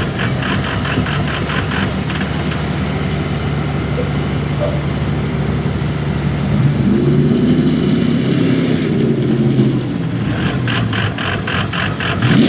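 A street gas pulling truck's engine running hard under load while it pulls the sled. The revs rise and fall about seven to ten seconds in. A fast rhythmic clatter is heard at the start and again from about ten seconds in.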